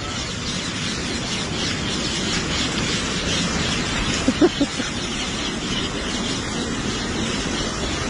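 Outdoor ambience: a steady rushing noise with many small bird chirps, and one short pitched call a little after four seconds in.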